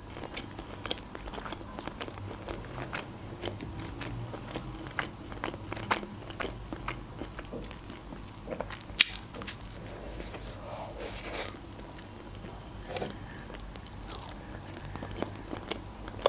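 A person chewing and biting into crispy fried food, with a steady run of small crunches. There is a sharper crunch about nine seconds in and a longer crunchy burst around eleven seconds.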